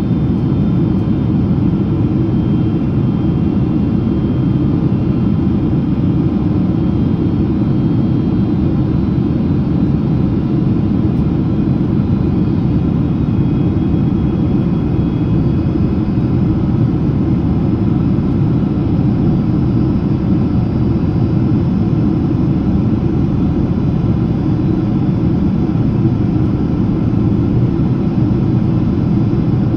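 Steady cabin noise inside a Boeing 767-300ER in descent: an even, deep rumble of airflow and jet engines with no change in pitch or level.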